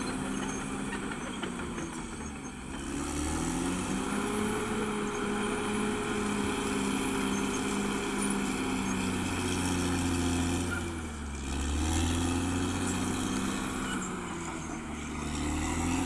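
CAT D6R XL bulldozer's diesel engine running steadily at working speed, its note sagging briefly about two and a half seconds in and again near the eleven-second mark, then climbing back each time.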